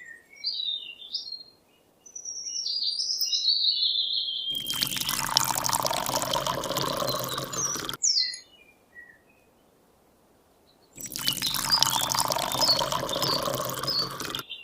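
Birds chirping for the first few seconds, then water pouring and splashing in two spells of about three and a half seconds each, both starting and stopping abruptly, with birds still chirping faintly.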